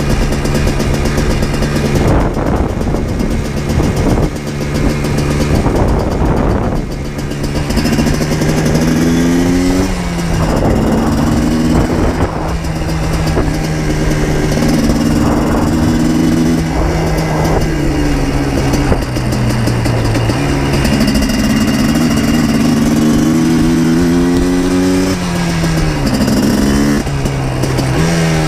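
Yamaha Blaster 200's single-cylinder two-stroke engine running on the move, its pitch climbing and dropping back several times as the throttle is worked.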